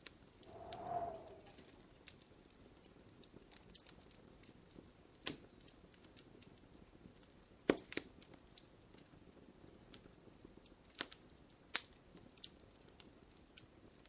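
Wood fire crackling in a fireplace: scattered sharp pops and snaps, the loudest about eight seconds in. A short pitched whine rises and fades about a second in.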